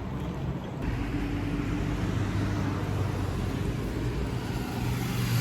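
A motor vehicle running: a steady low engine hum with road noise, starting about a second in and growing gradually louder.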